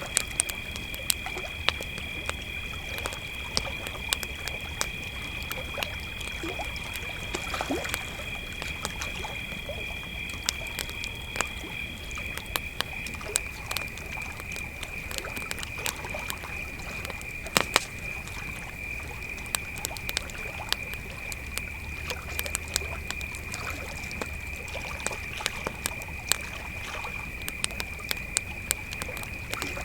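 Crickets chirping in a steady high trill, with a campfire crackling and popping in sharp irregular snaps throughout. A second, higher cricket trill stops about halfway through and comes back near the end.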